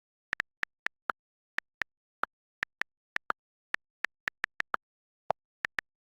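A series of about twenty short, sharp clicks at irregular spacing, in otherwise dead silence.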